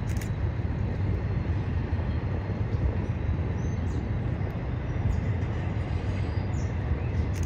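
Intermodal freight train of double-stack container cars and trailer cars rolling past at a steady pace: a continuous low rumble without distinct wheel clicks.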